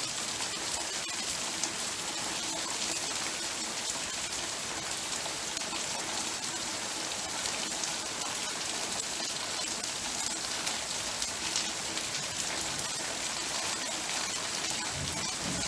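Heavy rain falling steadily, pattering densely on surfaces.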